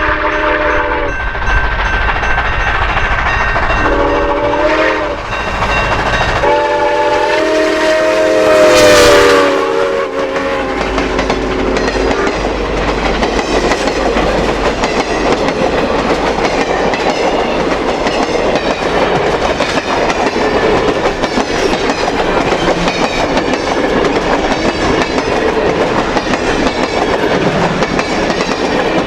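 Georgia Northern 2-8-2 steam locomotive No. 105 sounding its multi-note steam whistle: a short blast ending about a second in, another about four seconds in, then a long blast with a loud burst of hiss about nine seconds in. After that comes the steady rumble and clatter of the train rolling by.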